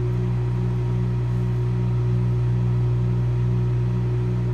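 Microwave oven running: a steady hum with a second tone pulsing beneath it about twice a second.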